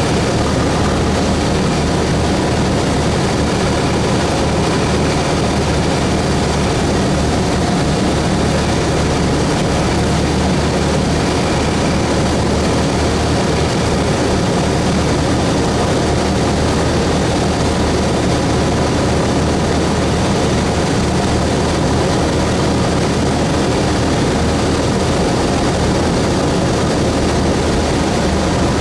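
Cessna 172S's four-cylinder Lycoming IO-360 engine and propeller running at a steady setting, a loud even hum that holds one pitch throughout.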